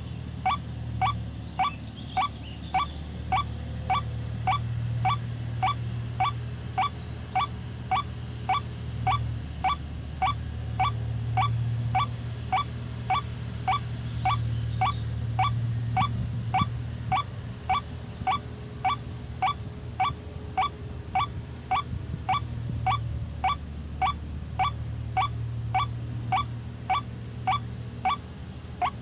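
White-breasted waterhen calling, a short honking note repeated steadily about one and a half times a second, over a steady low hum.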